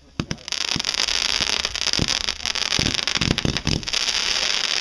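Aerial fireworks going off: a couple of sharp reports, then from about half a second in a dense, steady crackling with several louder bangs mixed through it.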